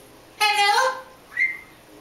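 Pet parrot calling: one rich, slightly rising call of about half a second, then a short high whistle near the end.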